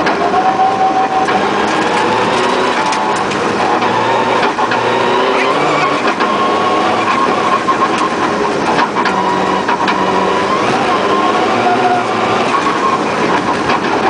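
Rally car's engine revving up and down as it is driven hard on a snowy, rough forest stage, heard from inside the cabin, with scattered knocks and clatters from the car over the rough surface.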